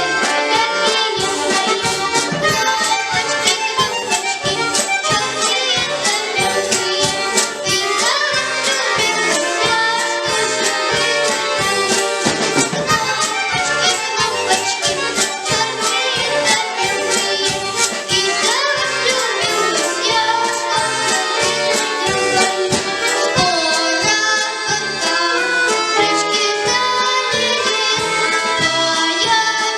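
Children's bayan (button accordion) orchestra playing a lively folk-style piece, many accordions sounding together over a regular percussive beat.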